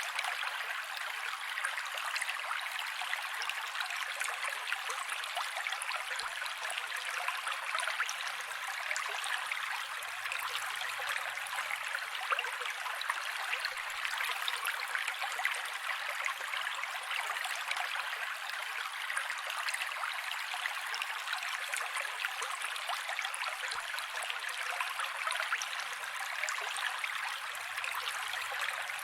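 Mountain creek running steadily over rocks: a constant rushing and splashing of water with a fine, crackly trickle.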